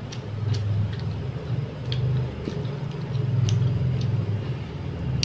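A person chewing a bite of cheese-topped sausage with a few sharp, faint wet mouth clicks, over a steady low rumble.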